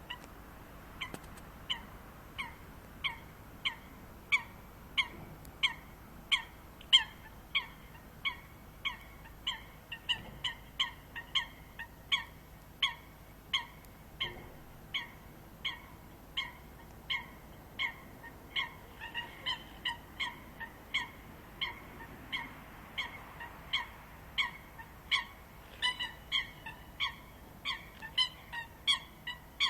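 Birds giving short, sharp calls over and over, roughly two a second. In the last third the calls come faster and overlap, as if more than one bird is calling.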